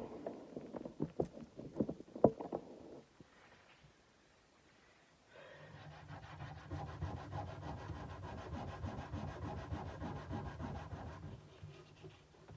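Hand sanding a kukri's steel blade with abrasive paper: quick, even back-and-forth rubbing strokes that begin about five seconds in and stop about a second before the end. Before that come a few sharp knocks and clicks, the loudest about two seconds in.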